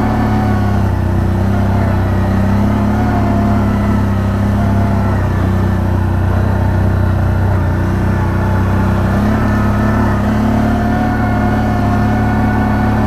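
Quad bike engine running at a steady speed while riding, with only slight rises and dips in pitch.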